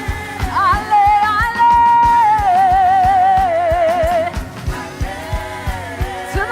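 Live church worship music: a lead singer sings over a band with a steady drum beat, holding one long note with vibrato through the middle.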